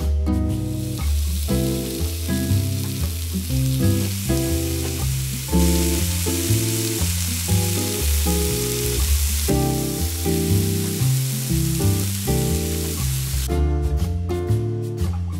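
Onions frying in hot oil in a nonstick wok: a steady sizzle that grows louder for a few seconds in the middle as they are stirred with a wooden spatula, and stops shortly before the end. Background music plays throughout.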